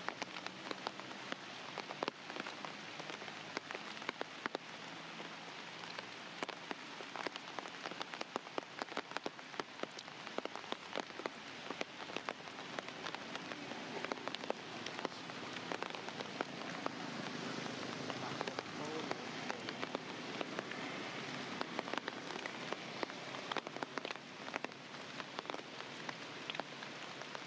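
Steady rain falling, with many sharp individual drops hitting a surface.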